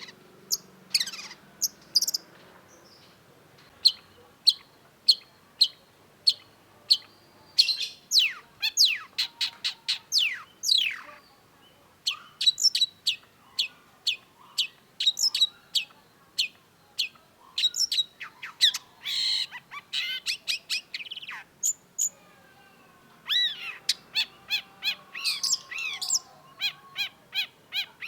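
Long-tailed shrike singing: rapid runs of sharp chirps and downward-sweeping whistles, delivered in bursts broken by a few short pauses.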